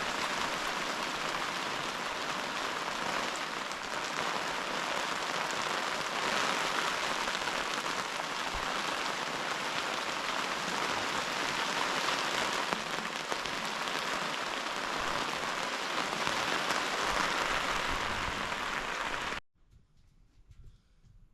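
Heavy rain falling steadily as a dense hiss, which cuts off abruptly near the end.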